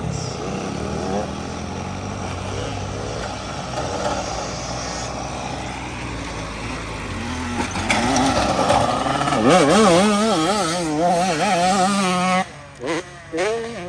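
Dirt bike engine running on a track. It gets louder about two-thirds of the way in, its pitch rising and falling quickly with the throttle for several seconds, then drops away sharply near the end.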